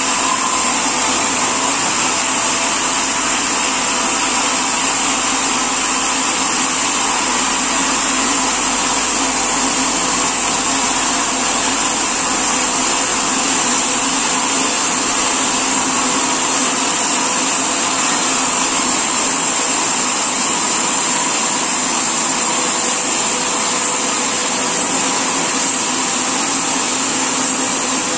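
Sawmill machinery running steadily, a constant loud mechanical noise with a high-pitched whine over it.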